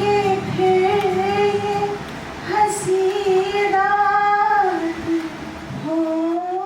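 A song in a high female voice, sung in phrases over a steady instrumental accompaniment; the accompaniment drops out near the end.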